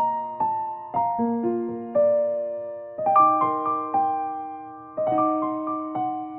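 Background music: a gentle, slow piano piece, notes and chords struck every half second or so and left to ring and fade.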